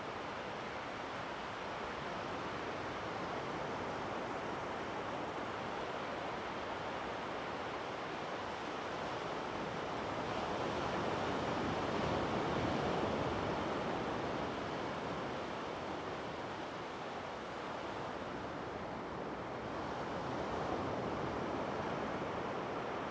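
Ocean surf washing on a beach: a continuous rush of breaking waves that swells slowly, loudest about halfway through and again a little before the end.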